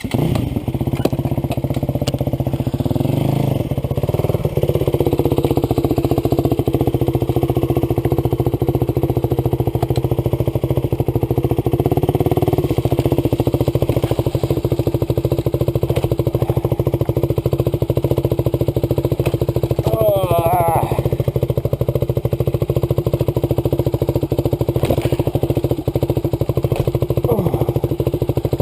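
Dirt bike engine running steadily under load while towing another bike by a strap, its pitch rising about three to four seconds in as it pulls away. A short run of quick rising chirps sounds about twenty seconds in.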